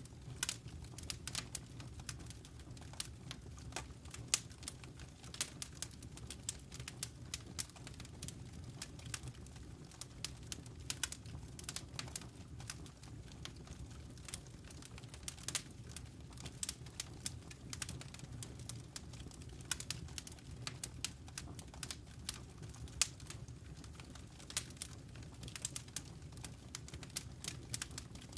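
Wood fire burning in a fireplace, crackling: irregular sharp snaps and pops, often several a second, over a low steady rumble.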